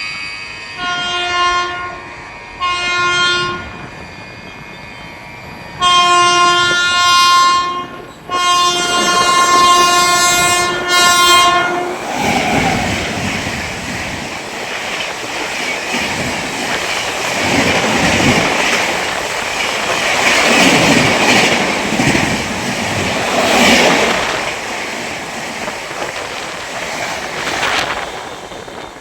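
A train horn sounds two short blasts, then two long ones. The train then runs past through the station, its wheels clattering over the rail joints for about sixteen seconds before the noise falls away near the end.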